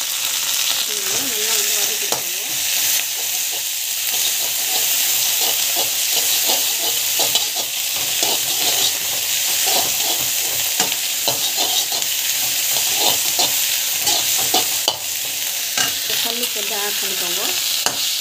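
Chopped onion, chillies, curry leaves and coriander sizzling in hot oil in a kadai while a metal spatula stirs them, scraping against the pan in frequent short strokes over a steady frying hiss.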